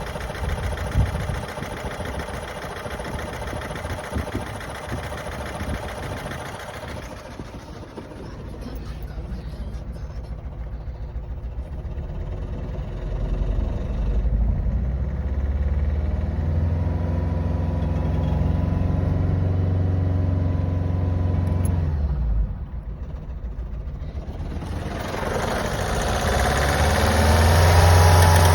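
Vauxhall Astra J engine running, its revs raised and held for several seconds, dropping back suddenly, then rising again near the end. The car has a rough idle and a loss of power.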